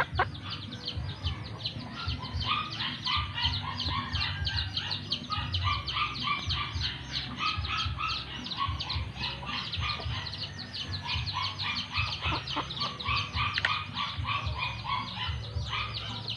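Chickens clucking and calling in quick, continuous short notes, over an irregular low rumble.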